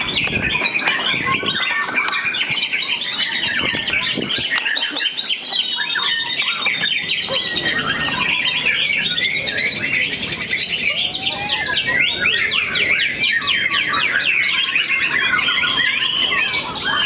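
Several caged white-rumped shamas singing over one another: a loud, continuous tangle of fast, varied whistles, chirps and rattling trills.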